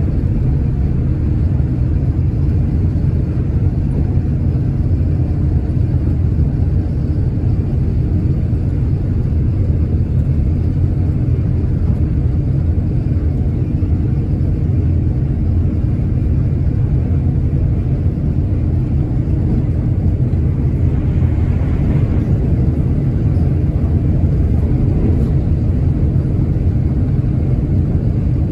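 Passenger train cabin noise at speed: a steady low rumble of wheels and running gear on the track, with a faint steady hum.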